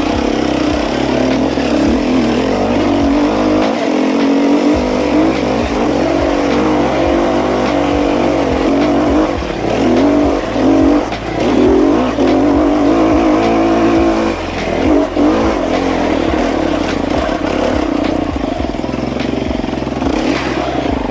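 Dirt bike engine revving up and down as it climbs a hill, the pitch rising and falling with the throttle.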